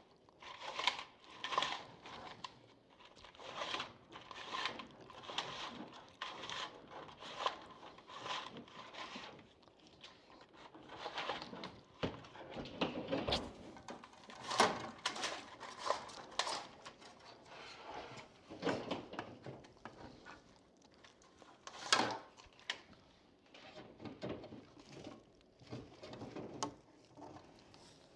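Steel fish tape being wound and worked through a wall cavity from its reel: a string of short scraping, rattling strokes, one or two a second, which give way to more irregular knocks and scrapes about halfway through.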